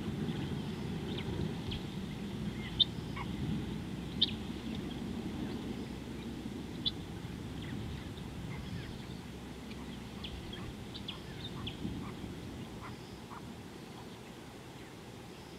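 Wild birds calling with short, sharp chirps, three louder ones standing out about three, four and seven seconds in, over a low rumbling hiss that slowly fades.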